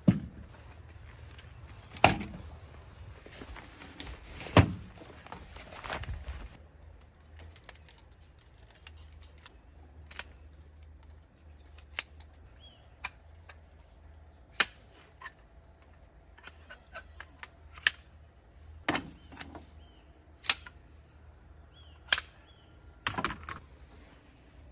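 Irregular sharp knocks and clicks of objects being handled, the loudest near the start and about two and four and a half seconds in, with faint bird chirps between them.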